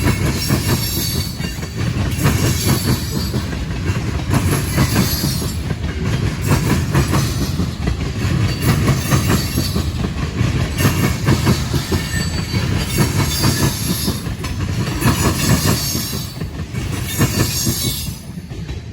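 Freight cars of a manifest train rolling past, their wheels clattering over railroad diamond crossings with bursts of high wheel squeal. The sound eases off near the end.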